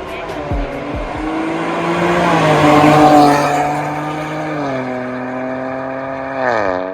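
Ford Focus MK4's 1.5 EcoBoost three-cylinder engine heard through an MS-R valved cat-back exhaust, revving up over about three seconds, easing back to a steady pitch, then dropping sharply near the end.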